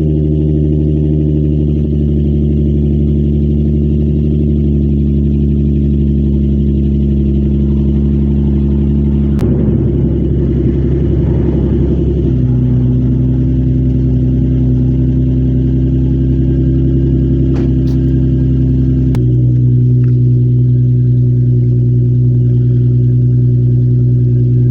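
Nissan 350Z's V6 idling steadily through an aftermarket exhaust, with a slightly rougher stretch about ten seconds in and a change in tone near the end.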